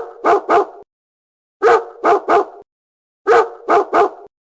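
Dog barking in quick sets of three, the same three-bark clip repeating about every second and a half, three times over.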